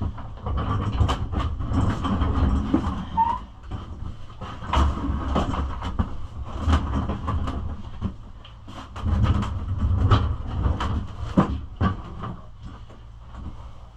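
Handling noise: low, uneven rumbling in swells with scattered knocks and clicks, as the small dirt bike is moved about and the camera is set back up.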